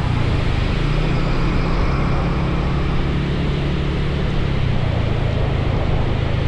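Motorcycle engine running steadily under way, beneath a constant rush of wind and rain noise on the wet road.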